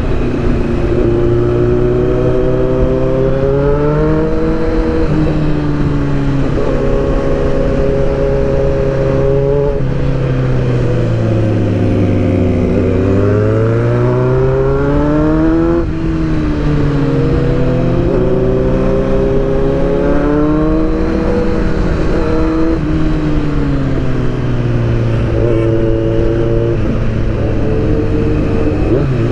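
Sport motorcycle engine heard from the bike while riding, its pitch climbing under acceleration and dropping back several times as the throttle is rolled off and on, with a long dip and climb back near the middle. There is steady road and wind noise underneath.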